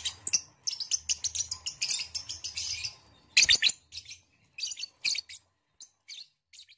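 A group of caged lovebirds chattering in rapid, high-pitched chirps. The chirps come thick for the first three seconds, with one louder burst about halfway, then thin out to scattered chirps.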